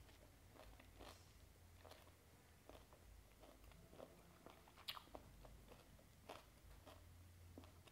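Faint close-mouthed chewing of a crunchy banana flower and raw beef salad: soft, irregular crunches and mouth clicks, with one sharper click about five seconds in.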